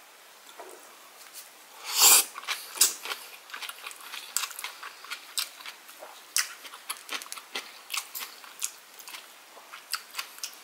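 Close-miked eating of a rice bite wrapped in kimchi: one loud bite about two seconds in, then steady chewing as a quick run of small wet clicks and smacks.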